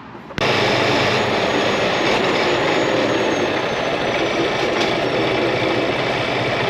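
Semi-truck's diesel engine running steadily under loud road noise, starting abruptly a moment in.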